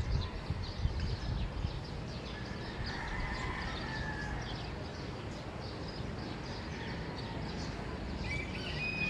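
Early-morning neighbourhood ambience: birds calling and chirping over a steady low background rumble, with a longer call about three seconds in and another near the end.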